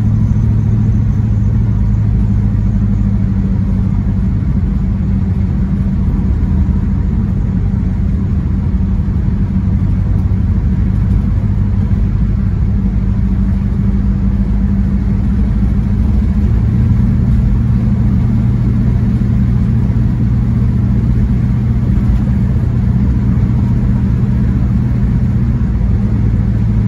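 The 1968 Plymouth Satellite Sport Wagon's engine running steadily at cruising speed, with tyre and road noise, heard from inside the cabin. The engine note rises slightly about two-thirds of the way through.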